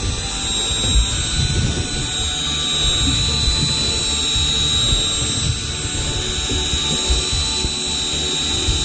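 Electric fishing reel winding in line, its motor giving a steady high whine over a low rumble.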